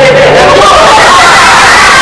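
Many voices shouting and calling out at once, loud and overlapping, as a group of children's voices.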